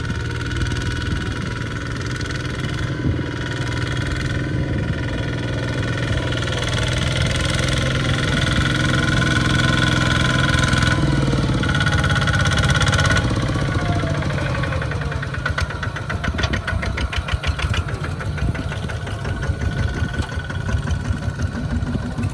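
Small farm tractor engine running in a muddy rice field. It is loudest around the middle, then drops in pitch and settles into a fast, even chugging.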